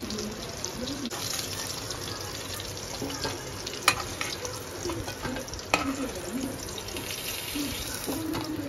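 Pointed gourd (parwal) pieces frying in oil in a metal kadhai, a steady sizzle, as a steel spatula stirs and scrapes them. The spatula knocks sharply against the pan twice, about four seconds in and again nearly two seconds later.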